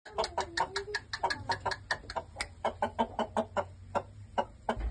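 Aseel chickens clucking: a rapid, steady run of short clucks, about five a second.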